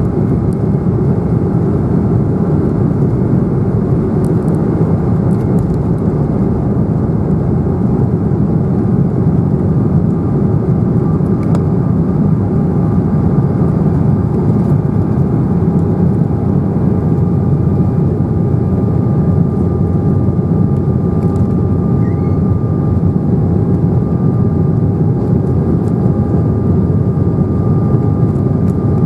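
Steady jet-engine and airflow noise heard inside the cabin of an Embraer 195 airliner, from its General Electric CF34-10E turbofans. A dense, even rumble carries a couple of faint steady whining tones above it.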